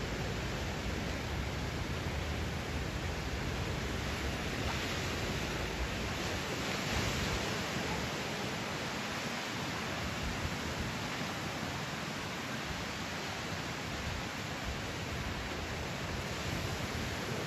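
Surf washing onto a beach: a steady rush of wave noise that swells slightly about seven seconds in.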